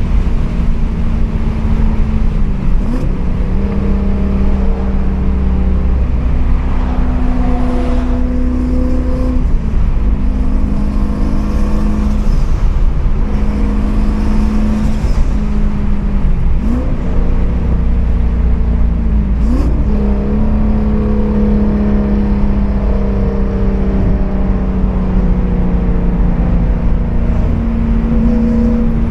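Turbocharged 5.0 Coyote V8 of a 2015 Mustang, heard from inside the car while cruising at fairly steady revs with a deep exhaust drone. The revs dip briefly and recover a few times, as at light throttle changes or shifts.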